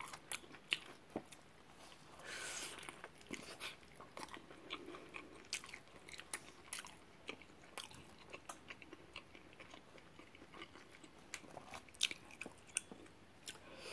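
Close-miked eating sounds of someone biting into and chewing a burrito filled with fried fish, fried shrimp, rice and beans: many short, irregular mouth clicks and smacks, with a longer, louder bite about two and a half seconds in.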